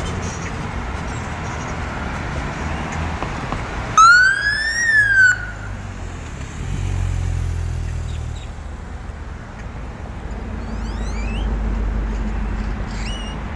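Passing traffic, and about four seconds in a police siren gives one short whoop, its pitch rising then falling over about a second and a half; it is the loudest sound here.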